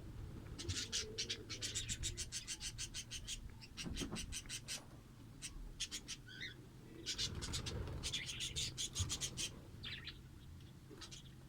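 Fischer's lovebirds chattering: quick runs of sharp, high chirps, about eight to ten a second, in several bursts of a second or more.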